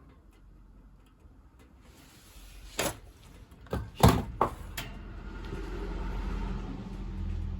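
Wood stove being handled: four sharp knocks and clunks within about two seconds, then a rushing noise with a low rumble that builds toward the end.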